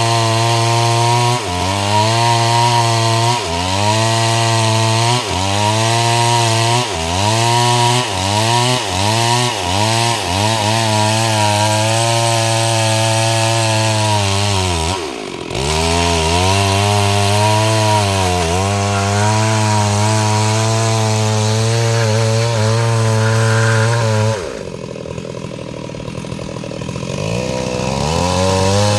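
STIHL MS 382 two-stroke chainsaw cutting mahogany, its engine pitch sagging and recovering again and again as the chain loads up in the wood. About halfway through the revs drop sharply and come straight back. Near the end the saw falls back to idle for about three seconds, then revs up again.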